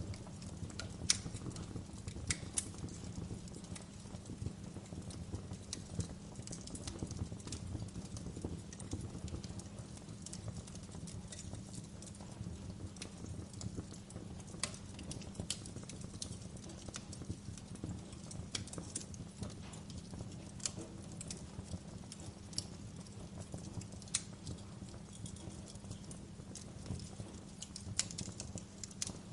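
Wood fire crackling, with sharp irregular pops and snaps, a few a second, over a steady low rumble.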